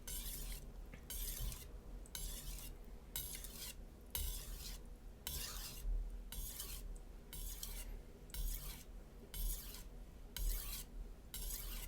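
HAP40-steel chef knife blade stroked along a wet Naniwa Super Stone whetstone, a rasping hiss about once a second, about a dozen strokes. These are light finishing passes on the edge, counted down in sets.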